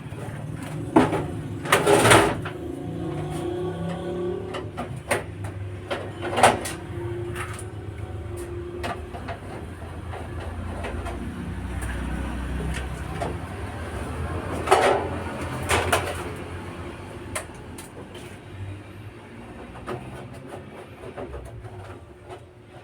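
Konzert 502B amplifier being opened up and handled: scattered knocks and clatter, loudest about two seconds in, with a few more later, over a steady low hum.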